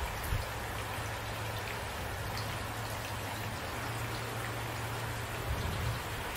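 Steady rain falling, with individual drops pattering on a surface. There is a low thud just after the start and a couple more near the end.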